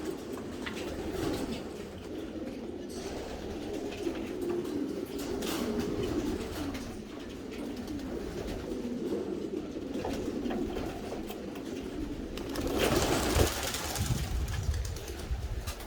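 Several homing pigeons cooing at once, their low, overlapping coos running on without a break. A brief louder rustling noise comes about 13 seconds in.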